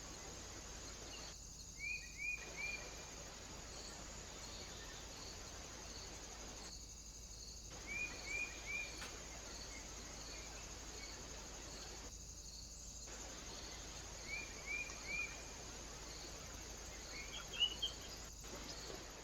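A small bird calls in groups of three quick, short notes, repeated about every six seconds, with a few more chirps near the end. Behind it are a faint steady insect chirping and hiss.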